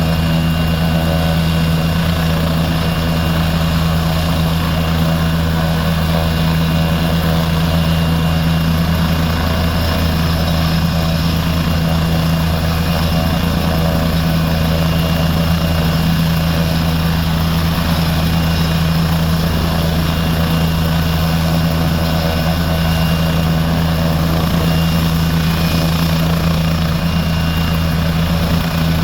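Air ambulance helicopter running steadily on the ground: a constant low rotor and turbine drone that neither rises nor falls.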